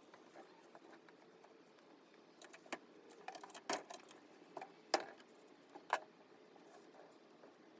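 Scattered light clicks and taps from small tools and parts being handled during the repair, thickest in the middle few seconds, with one sharper click near the end.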